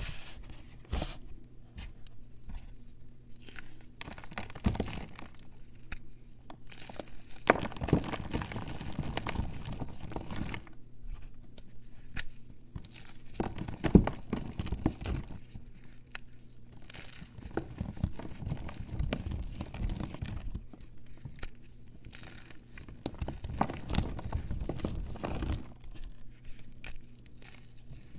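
Crunching, crackling and tearing of a material being handled, in several irregular spells a few seconds long with a few sharp clicks, over a faint steady low hum.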